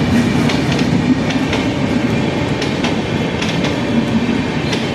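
Raptisagar Superfast Express passenger train passing close by: a steady rumble of coaches, with wheels clacking over rail joints in irregular clicks.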